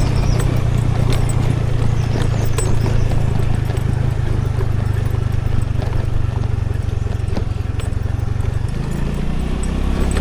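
Scooter engine running steadily, with scattered sharp clicks and rattles over it. About nine seconds in, the engine note drops lower.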